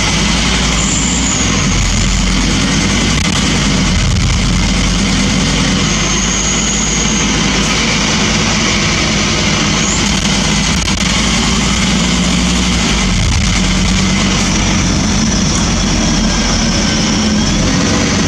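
Scania N230UB bus engine running steadily, its low note shifting about two-thirds of the way through, with a faint high whistle that comes and goes.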